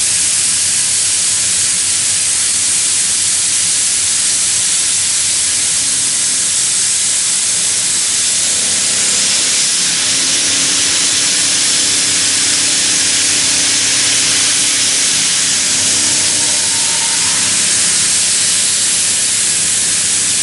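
CNC milling machine plunge-milling with an HPMT SE30 end mill. A steady, loud spraying hiss dominates, and a faint low hum comes in about halfway through. There is no chatter from the cut.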